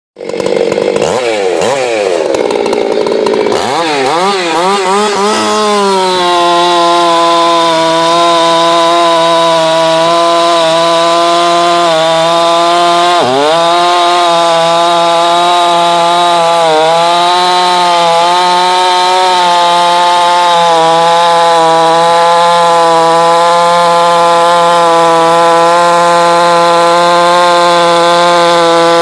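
Jonsered 2188 two-stroke chainsaw with a modified muffler, on a 28-inch bar in oak. The engine revs up and down for the first few seconds, then holds a steady high pitch under load in the cut. Its pitch dips sharply once near the middle and briefly a couple of times after.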